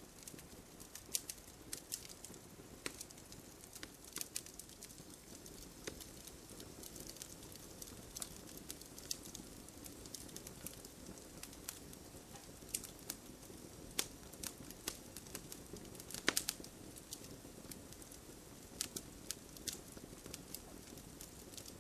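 Wood campfire crackling: irregular sharp pops and snaps over a soft, low rush of flame, with a small cluster of louder pops about three quarters of the way through.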